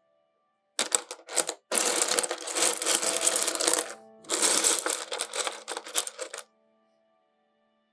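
Rough potch opal pieces clattering and clicking against one another as they are handled, in three bursts: a few clicks about a second in, then two longer runs of dense clatter that stop about six and a half seconds in.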